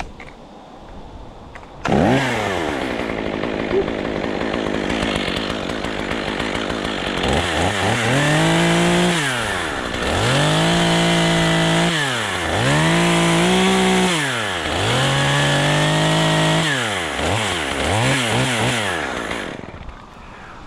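Two-stroke chainsaw catching suddenly and settling to idle, then revved to full throttle about six times, each burst held for a second or so before dropping back, and shut off near the end.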